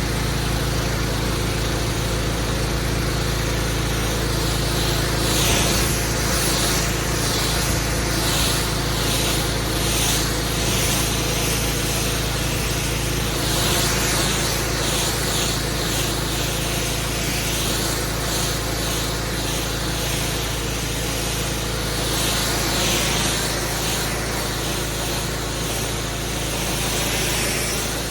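Engine-driven pressure washer running steadily, its high-pressure water jet hissing over block paving in repeated sweeping passes about once a second.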